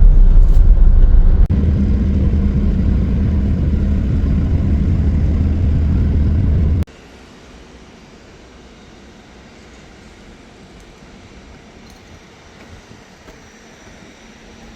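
Steady low rumble of a moving vehicle's road and engine noise. About seven seconds in it cuts off suddenly and leaves only a faint steady background hiss.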